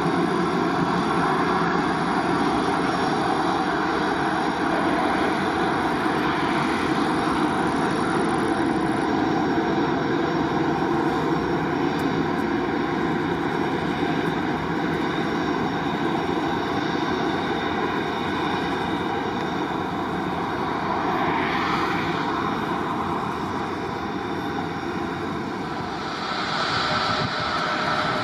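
Jet airliner's engines running, a steady rushing noise with several high steady whining tones held through.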